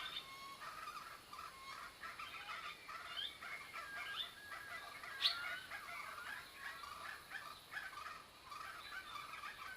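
Red-eyed bulbuls calling: a continuous chatter of many short overlapping notes, with one sharp click about five seconds in.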